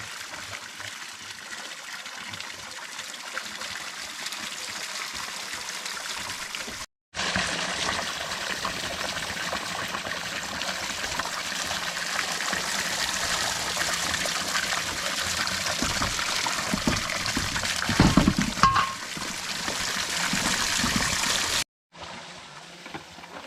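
Water running and trickling in a steady splashing stream, louder after a cut about seven seconds in, with a brief louder knock or splash about eighteen seconds in.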